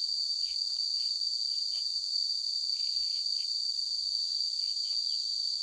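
Crickets trilling in a steady, unbroken high-pitched chorus, with a few faint soft knocks underneath.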